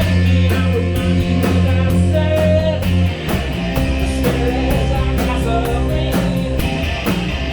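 Rock band playing live, guitar and drum kit with a steady beat, in an instrumental stretch between sung lines.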